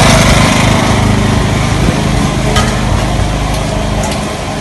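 Small engine running steadily, its sound gradually fading, with a few faint clicks.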